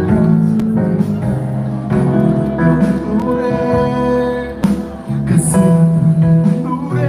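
Live band music from a concert sound system: a pop ballad with sustained melody notes, with some singing.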